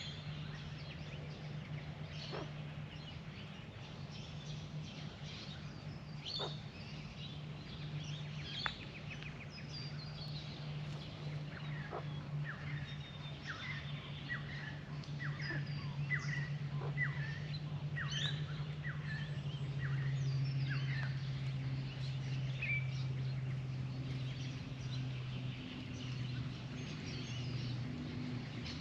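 Australian magpies making soft warbling and chirping notes, many short high calls in a row, busiest in the middle. A steady low hum runs underneath.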